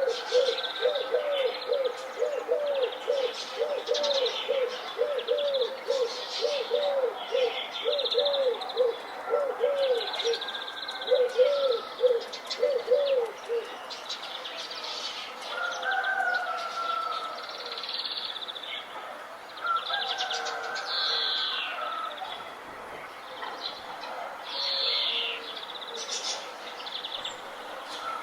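Several birds singing together, with high chirps and trills throughout. For the first half, one bird repeats a low hooting note about three times a second; it stops about halfway through, leaving softer whistled phrases among the chirps.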